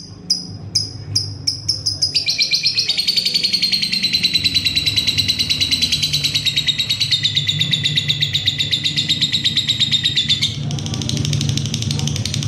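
Lovebird calling: sharp ticking calls quicken over the first two seconds and run into a long, rapid chattering trill, the 'ngekek' that fighter-lovebird keepers prize, lasting about eight seconds and easing off near the end.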